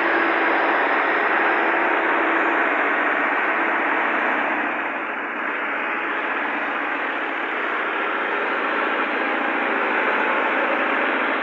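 Millat tractor's diesel engine running steadily under load, a dense mechanical drone that eases off slightly about halfway through.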